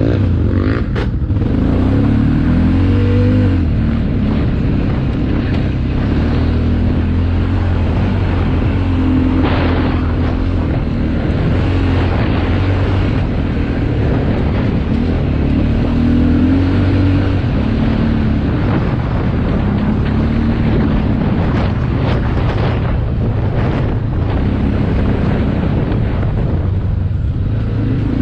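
Motocross motorcycle engine running hard, its pitch rising and falling again and again as the rider works the throttle.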